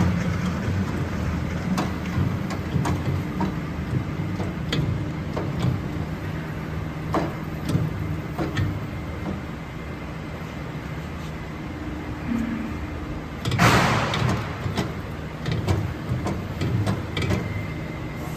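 Wire feeder for thin AWG28 wire running under test: a steady low mechanical hum with scattered light clicks. A short burst of hissing comes about three-quarters of the way through.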